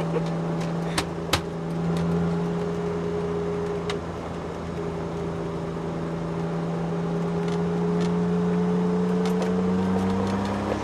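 Twin-turbo Ford Sierra XR4x4 engine droning steadily from inside the cabin as the car drives at a fairly constant speed, its pitch climbing slowly near the end. A couple of sharp knocks sound about a second in.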